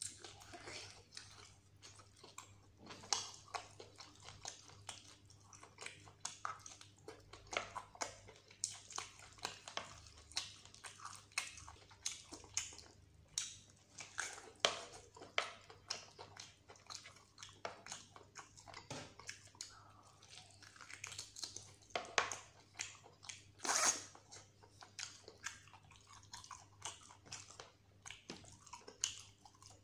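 A man chewing mutton curry and rice, with wet, irregular smacking and clicking mouth sounds. One louder, longer smack comes about three-quarters through.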